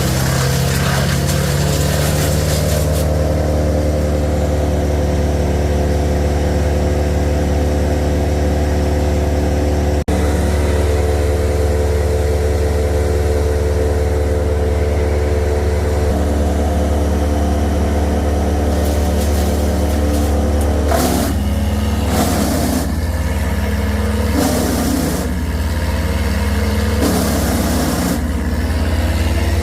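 A large engine running steadily at a constant speed, with a strong low hum. Short bursts of noise come in over it in the last third.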